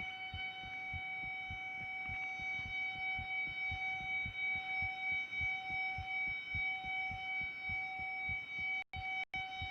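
Civil defence (air-raid) siren sounding a nuclear-attack warning, holding a steady wail at full pitch after winding up, with faint irregular low thumps underneath. The sound cuts out twice briefly near the end.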